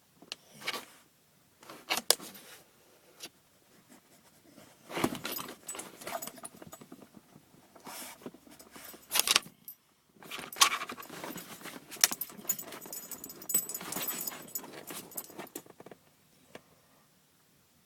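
Brittany dog's collar tags jingling, with rustling, as the dog moves about in the car cabin, in irregular bursts with short quiet gaps.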